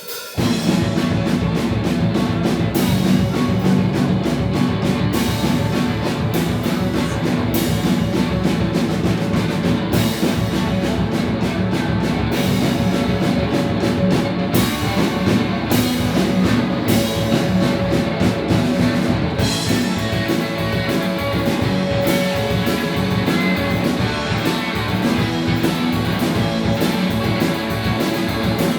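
Live rock band playing a song with drums and electric guitar, the full band coming in sharply right at the start and carrying on at a steady level.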